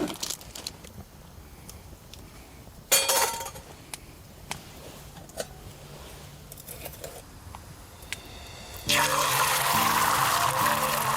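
A short burst of splashing liquid about three seconds in, with a few small clicks and knocks around it, then background music starting near the end.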